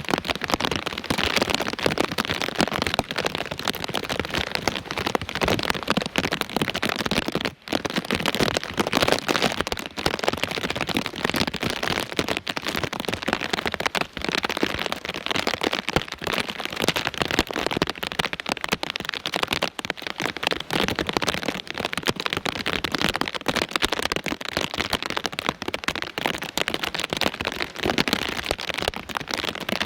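Heavy rain pouring down, a dense crackling patter of countless drops, with a momentary drop-out about seven and a half seconds in.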